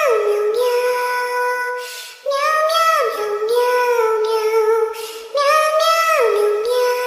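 A high-pitched singing voice repeating the same short phrase about every three seconds, each time sliding down and then holding a long note: a looped song clip.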